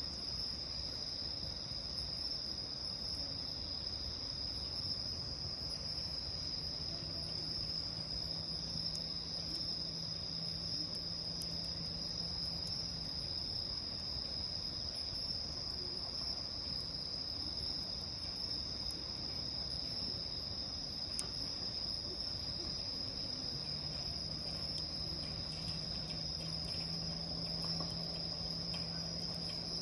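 Bell crickets (suzumushi) chirping, a steady high ringing chorus that is fairly loud.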